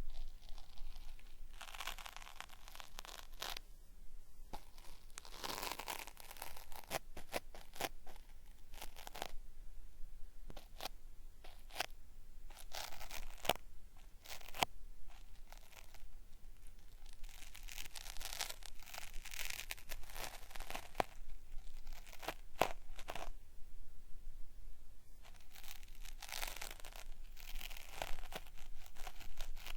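Cotton swab scraping in a binaural microphone's ear, giving a crackly, peeling, ripping sound in irregular strokes with sharp clicks and brief pauses.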